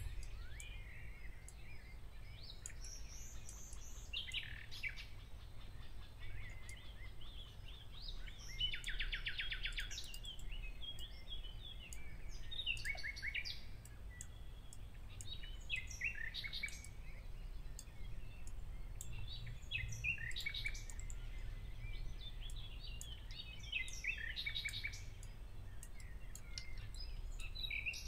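Faint birds chirping and calling on and off, with a fast trill about nine seconds in, over a low steady hum.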